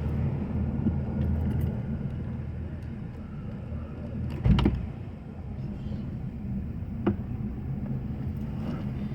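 Watercraft engine running at a steady idle, with a loud thud about four and a half seconds in and a lighter knock near seven seconds.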